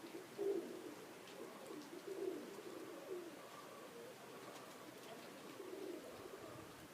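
Domestic pigeons cooing softly, a low warbling coo repeated several times.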